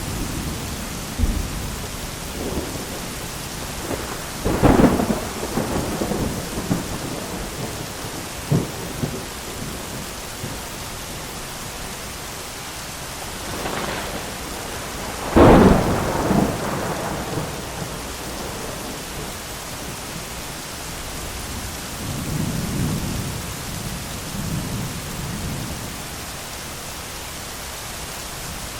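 Thunderstorm: steady heavy rain with thunder, a sharp crack about five seconds in, a short one near nine seconds, the loudest and closest strike about halfway through, and low rolling rumbles near the end.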